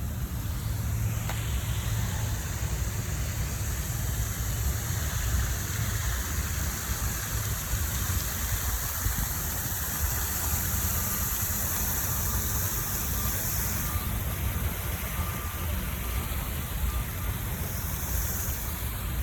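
Steady outdoor city ambience: a low rumble and hiss of distant road traffic, with a high steady hiss that fades about two-thirds of the way through.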